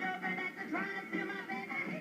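Live rock and roll song: singing over guitar and band accompaniment.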